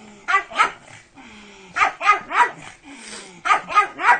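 A dog barking in three quick bursts of about three barks each, the bursts roughly a second and a half apart.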